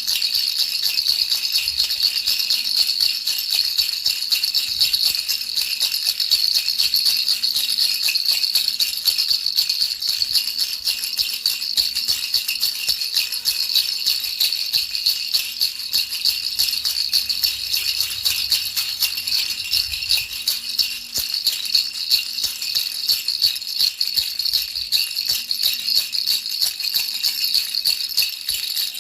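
Baby rattle shaken without a break: a dense, steady, high-pitched rattling of its beads, looped as white noise to lull a baby to sleep.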